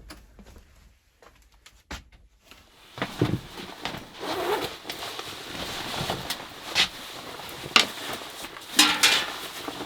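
Handling noises of a person moving about inside a small ice-fishing shack: rustling and scraping with sharp knocks and clicks. The noise picks up about three seconds in, and the loudest knocks come near the end.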